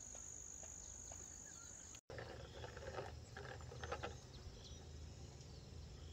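A steady high insect trill, typical of crickets, for about two seconds, then a sudden break. After the break come a few seconds of knocks and rustling over a low hum.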